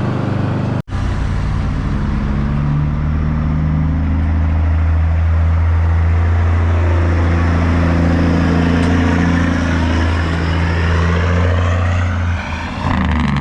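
A semi truck's diesel engine drones loud and deep as the truck passes, with its Jake brake (engine compression brake) giving a steady low 'brrr'. The sound cuts out for an instant about a second in.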